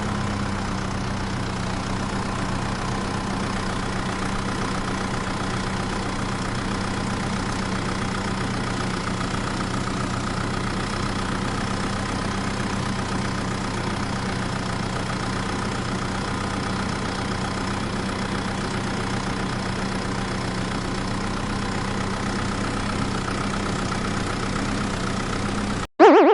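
Vehicle engine idling with a steady low drone, which cuts off suddenly near the end and gives way to a short, louder springy tone.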